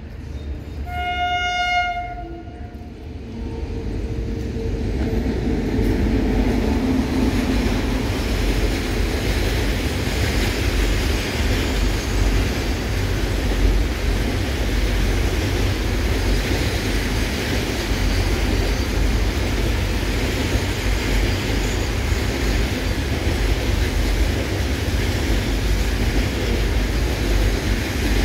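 A locomotive horn sounds one short blast about a second in. Then a loaded container freight train's wagons rumble and clatter over the rails, building up over the first few seconds and then running steadily as the train passes close by.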